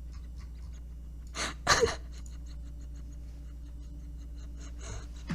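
A person's two quick, breathy gasps about a second and a half in, like a stifled laugh, with a fainter breath near the end.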